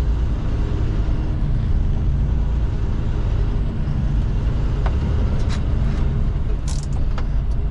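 Steady engine and road rumble of a moving vehicle heard from inside the cab, with a few light clicks near the end.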